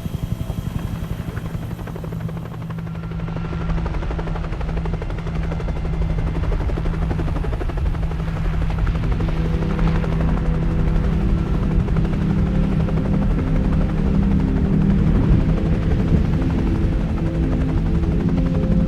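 Helicopter running steadily with a rapid rotor chop and a droning hum, growing a little louder; about halfway through, further steady tones join the drone.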